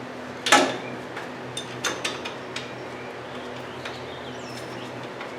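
Wrench and metal hardware on the starter-bolt nut of a VW engine: a sharp metal clink about half a second in, then a few lighter, irregular clicks, over a steady low hum.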